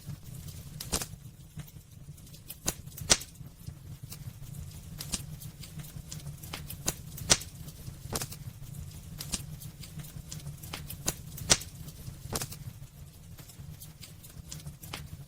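Wood fire burning in a fireplace, crackling with irregular sharp pops and snaps over a steady low rumble. The loudest pops come about three, seven and eleven seconds in.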